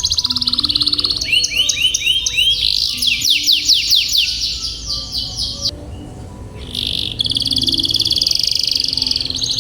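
Domestic canary singing: a fast rolling trill, then a run of quick sweeping whistled notes, a short pause about six seconds in, and then another long rapid trill.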